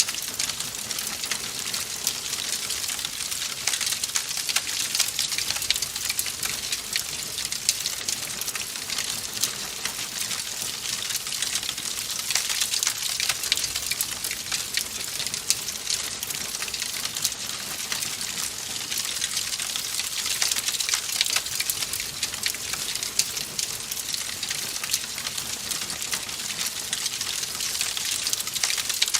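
Wood fire crackling in a fireplace: a steady, dense run of small pops and snaps over a soft hiss.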